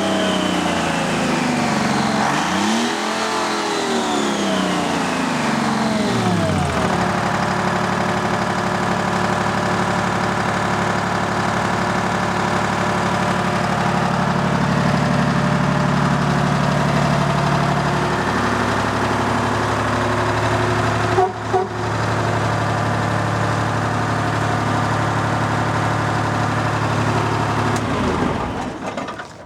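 Detroit Diesel 6V-53 two-stroke V6 diesel coming down from high revs, blipped up and back down again, then running steadily at low speed from about seven seconds in. There is a short knock a little past 21 seconds, and the engine sound falls away near the end.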